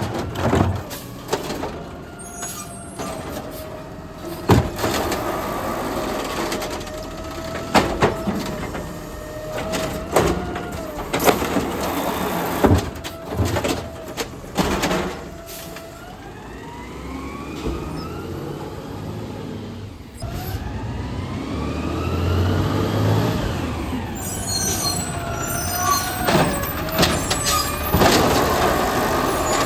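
Garbage truck at work: a steady whine with repeated clanks and knocks, then the engine revving up in rising sweeps about two-thirds of the way through, with some high squeaks near the end.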